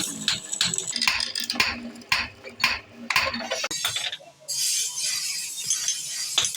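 Metal clinking and tapping in a run of quick, light strikes, about two or three a second, that stops about four seconds in.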